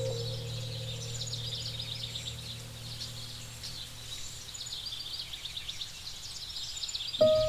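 Tropical forest ambience: a dense chorus of high, rapid chirps and trills, most likely birds, over a low hum that fades away in the first few seconds. Near the end a bell-like tone rings out as music comes in.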